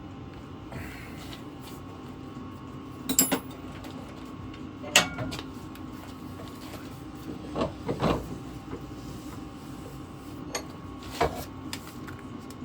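A few sharp knocks and clinks of metal parts and tools being handled in a workshop, one ringing briefly, over a steady low hum.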